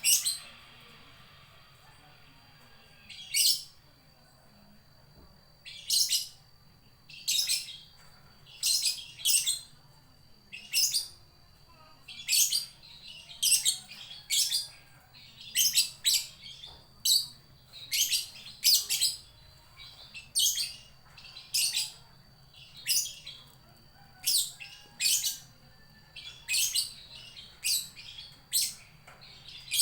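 Lovebird giving a string of short, shrill calls, roughly one a second, starting about three seconds in: calls for a missing companion.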